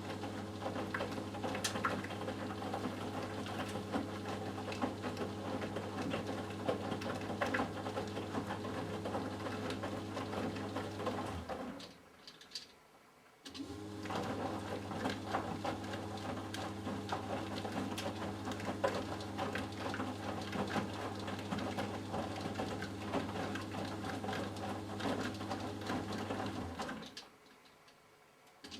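Eudora Sparmeister 702 Classic washing machine tumbling a load in the main wash: the drum motor hums steadily while the laundry and water clatter and slosh in the drum. The motor runs for about eleven seconds, stops for a second or two, runs again for about thirteen seconds and stops again near the end, the stop-and-go rhythm of the wash cycle.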